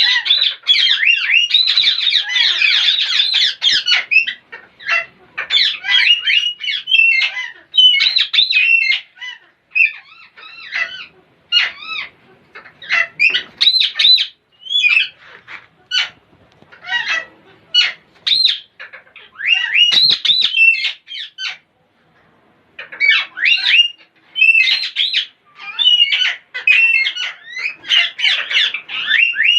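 Parrots chattering and squawking. A dense run of overlapping high calls fills the first four seconds, then short sharp calls come in quick clusters with brief pauses between.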